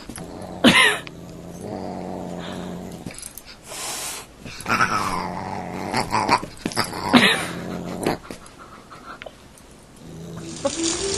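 A dog and a cat scuffling in a play fight: growling and several short pitched cries, some falling in pitch, with soft thumps and clicks of paws swatting.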